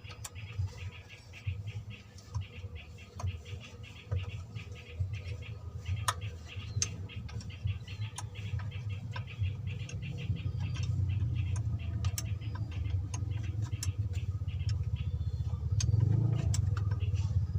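Mitsubishi 4D56 diesel engine running, a low steady rumble with a fast, even ticking over it, getting louder near the end.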